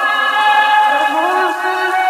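Sped-up, pitched-up nightcore lead vocal with no backing track: long held, wordless sung notes that slide from one pitch to the next.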